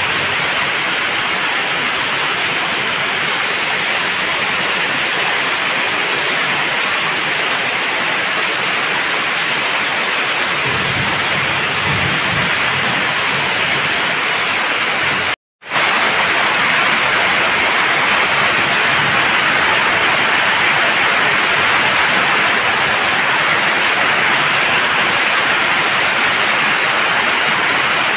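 Heavy rain falling steadily on wet pavement and puddles, a dense even hiss. It cuts out for a split second about halfway, then comes back slightly louder.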